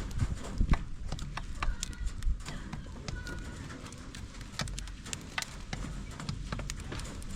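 Chickens pecking at feed: many irregular sharp taps, with a few short calls from the birds.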